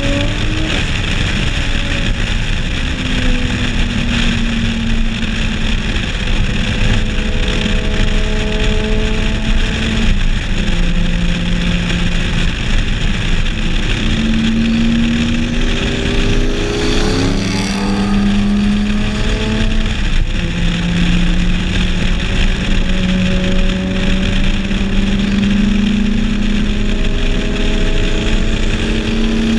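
Turbocharged car engines running at low, even revs as the cars cruise side by side, their pitch rising and falling a little now and then without any hard acceleration. A constant rush of wind and road noise sits under them.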